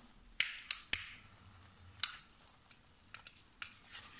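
Sharp clicks and snaps as a wood-shaving firelighter is lit on a stacked log fire in a wood stove: three loud ones in the first second, then scattered smaller ones, a cluster of them after about three seconds.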